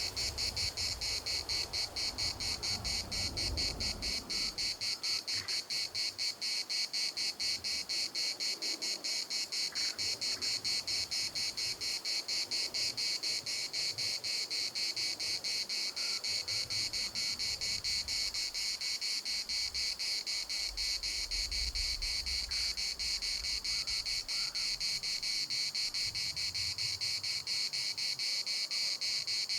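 Chorus of cicadas shrilling steadily, a high, rapidly pulsing buzz that never lets up. Low rumbles of wind come and go underneath.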